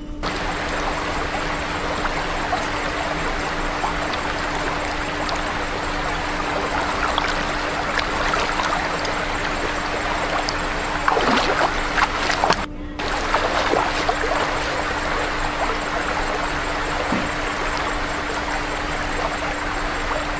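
Steady rushing noise like flowing stream water, with a few crackles and clicks between about 11 and 14 seconds in and a brief drop-out near 13 seconds. A faint steady hum runs underneath.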